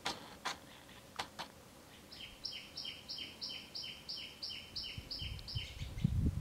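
A bird calling a steady run of about eleven identical notes, roughly three a second, after a few sharp clicks. Low rumbling noise comes in near the end.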